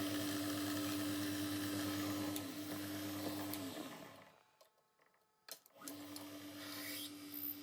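Drill motor running steadily while drilling brass plate; it winds down and stops about four seconds in, then runs again briefly and winds down near the end.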